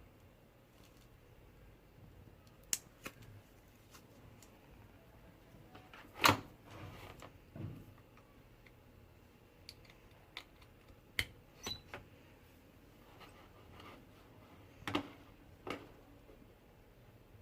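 Sparse, irregular clicks and light knocks, as of small hard objects being handled. The loudest knock comes about six seconds in.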